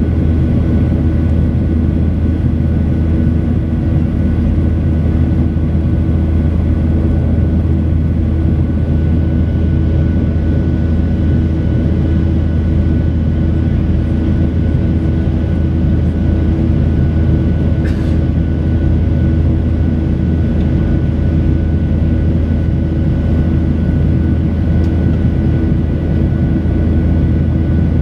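Steady drone of a Boeing 737-800's CFM56-7B turbofan engines and rushing air, heard inside the passenger cabin, with a constant low hum and no change in level.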